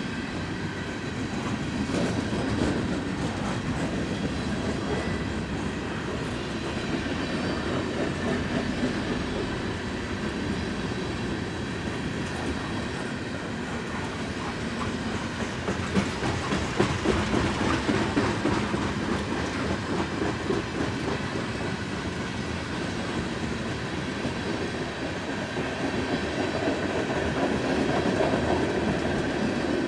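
A train passing close by, its railroad cars rolling past with continuous wheel-on-rail noise that swells and eases several times.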